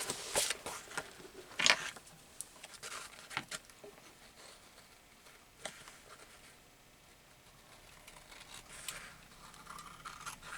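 Dull scissors snipping through paper in a few separate cuts, the sharpest about two seconds in, then softer paper rustling near the end.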